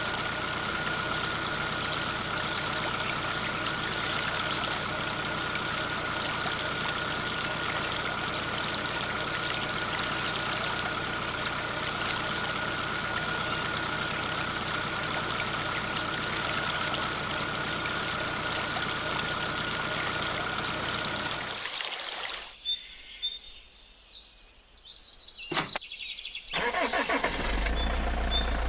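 A small motor or engine running steadily with a constant whine, cutting off sharply about 22 seconds in. After a few quieter seconds, a deep low engine hum starts near the end.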